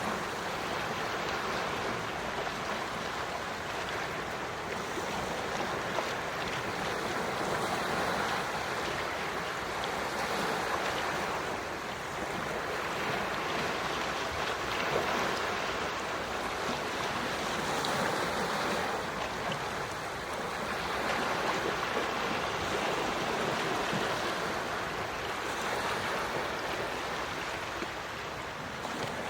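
Gentle sea waves washing in, a steady wash that swells and eases every few seconds.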